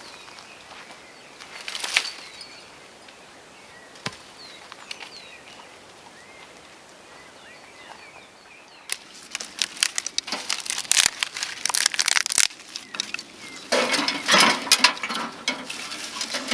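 Faint birdsong with a couple of single twig snaps, then from about nine seconds in a dense, irregular crackling and snapping of dry twigs and leaf litter.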